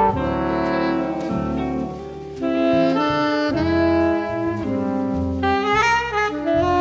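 A band playing live, with wind instruments holding long notes over a low bass line; the music drops briefly quieter about two seconds in.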